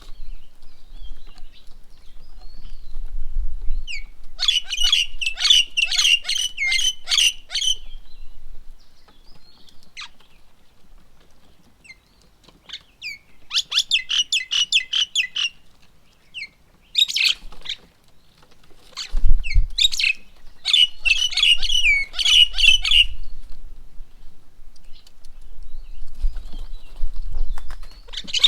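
Birds at a bird table calling in three bursts of rapid, high chattering notes, with a few single downward-sliding calls between them. A short low thump comes about two-thirds of the way through.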